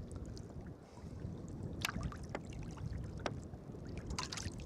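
Sea kayak under way: water sloshing and lapping against the hull and paddle blades, with a few sharp knocks about halfway through.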